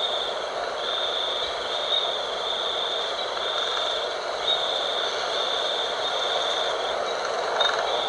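Steady night wind, a continuous rushing noise, with a high, pulsing trill running over it.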